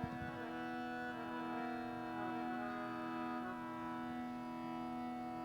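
Yamaha PSR-SX700 arranger keyboard playing its built-in demo phrase for an organ voice: a sustained organ chord held steady while the upper notes move.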